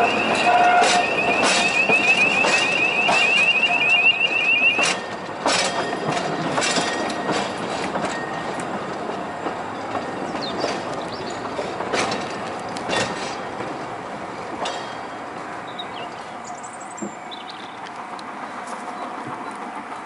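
Narrow-gauge railway carriages running along the track, with a high wavering wheel squeal, typical of a curve, that cuts off about five seconds in. Irregular clicks of the wheels over rail joints continue, the running sound slowly fading.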